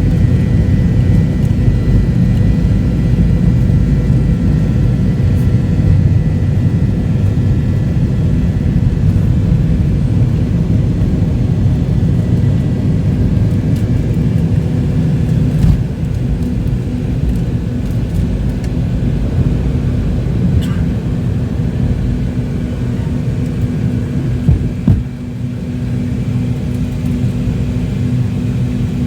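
Cabin noise of a McDonnell Douglas MD-88 jet airliner: its rear-mounted Pratt & Whitney JT8D turbofans give a loud, steady low rumble with a faint hum and whine over it. The rumble eases slightly about halfway through.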